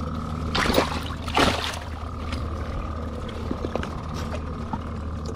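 A boat motor runs steadily with a low hum and a thin whine above it. Two short rushing noises come about a second in, half a second apart.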